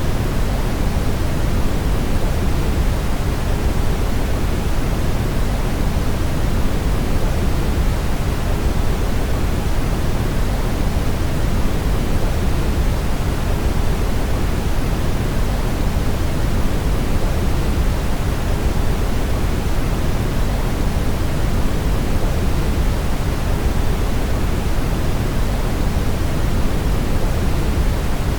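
Brown noise: a steady, even, deep rushing hiss, strongest in the low end and falling away toward the treble, with no changes or events.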